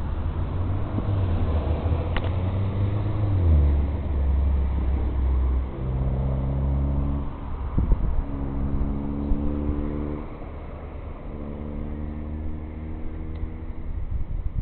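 A motor vehicle's engine running, its hum changing pitch in steps several times over a low rumble, with a couple of brief knocks.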